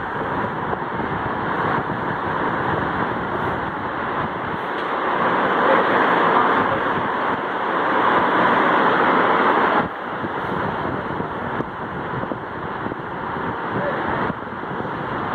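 Tron Eco Rio ceiling fan (1998 model) running: a steady rush of air that swells and then drops off abruptly about ten seconds in.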